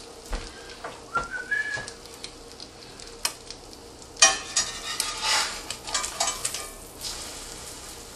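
Egg-dipped bread frying in hot butter in a skillet: a steady sizzle with crackling pops, busiest from about four to six and a half seconds in. A short rising squeak sounds about a second and a half in.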